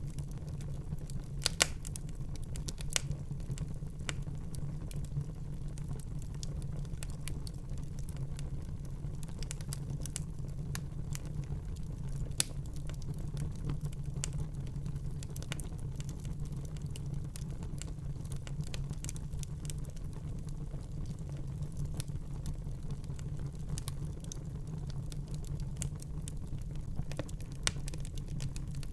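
Wood fire burning in a fireplace: irregular sharp crackles and pops over a steady low rumble of the flames, with a louder pop about a second and a half in and another near the middle.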